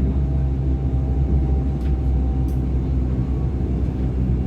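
Running noise inside a DB Class 425 electric multiple unit: a steady low rumble of the train moving along the track, with a faint steady tone above it.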